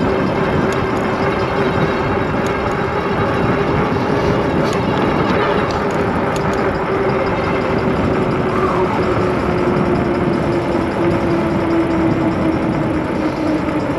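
Kreboc ES750 e-bike's electric hub motor whining steadily at full speed under heavy wind rush on the microphone, the whine sinking slowly in pitch over the last few seconds as the bike eases off.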